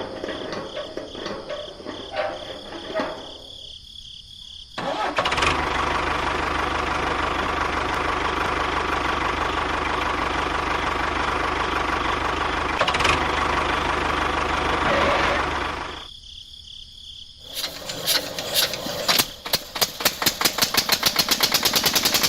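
A small engine runs steadily for about ten seconds, stops, then starts again with quick regular putt-putt pulses that speed up near the end. Light clinks come before it.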